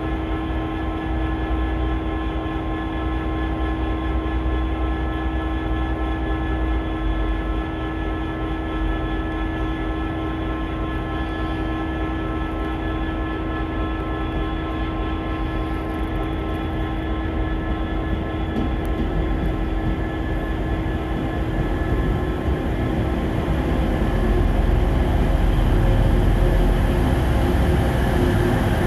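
TransPennine Express Class 185 diesel multiple unit approaching and running into the platform. A steady engine drone carries a few held tones that fade out about two-thirds of the way through, and the low rumble grows louder over the last several seconds as the train draws alongside.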